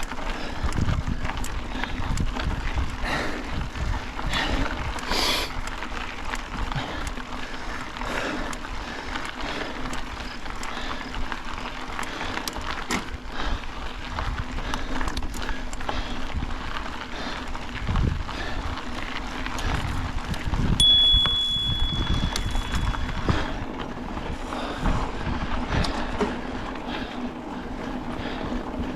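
Bicycle being ridden along a dirt trail, with steady rumbling and many small knocks and rattles from the bike over the ground. A short high squeal sounds for about two seconds a little past two-thirds of the way in.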